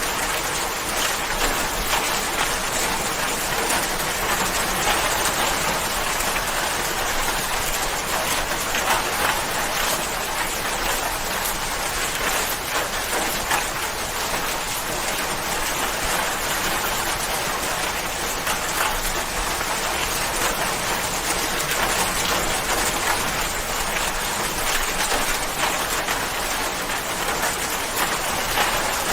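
Steady rain falling, a dense even hiss of drops with faint close patter of individual drops hitting a surface.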